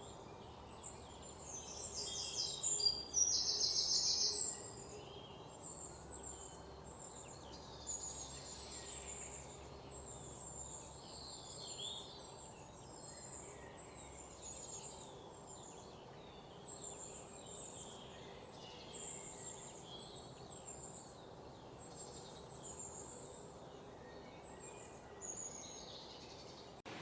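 Several songbirds chirping and singing over a steady background hiss, with one bird giving a loud, rapid trill about three seconds in.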